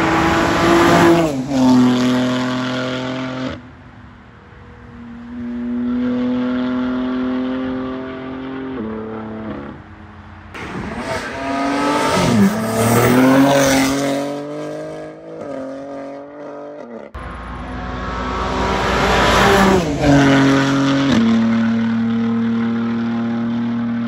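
Tuned BMW M3 G80's twin-turbo straight-six driving by at high speed, in several short shots. The engine note rises in loudness and then drops in pitch as the car passes, with a steady high engine tone between the passes.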